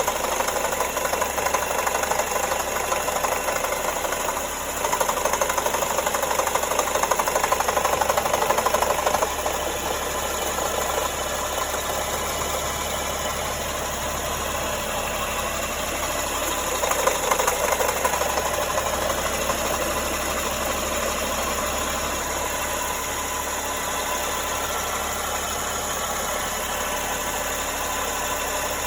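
Nissan Tiida engine running with an abnormal noise from the air-conditioning compressor, the sign of a failing compressor electromagnetic clutch coil.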